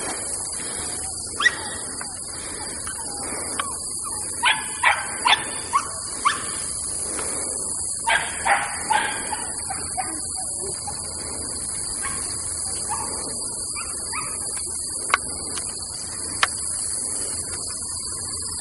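A dog giving short, scattered barks and yips, several in quick runs about 4 to 6 seconds in and again around 8 to 9 seconds in, over a steady high-pitched hiss.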